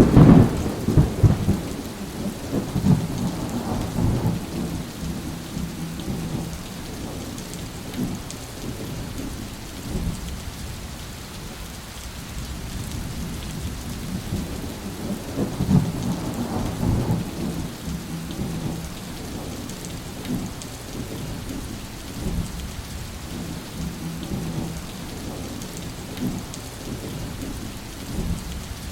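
Steady heavy rain with rolling thunder: a loud thunder rumble right at the start, a second swell of rumbling about halfway through, and softer low rumbles in between.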